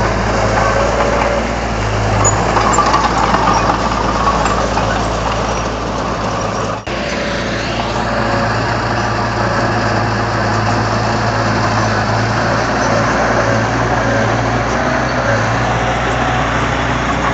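Komatsu D31 bulldozer's diesel engine running steadily with a deep, constant hum, broken briefly about seven seconds in.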